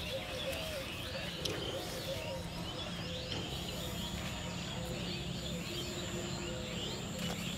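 Many small birds chirping continuously, short quick calls over a low steady background noise.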